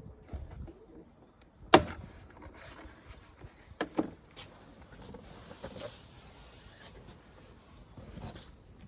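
Plastic trim clips of a Land Rover Freelander 2 rear door card snapping loose as the panel is prised off, one sharp loud snap about two seconds in and a smaller double snap around four seconds, with quiet rubbing and handling of the panel between.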